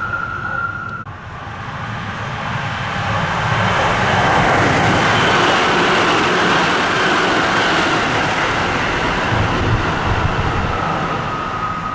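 Tsukuba Express electric commuter train passing at high speed close by: a rush of wheel and air noise that builds over a few seconds, stays loud for several seconds, then eases off near the end. A steady high whine cuts off abruptly about a second in.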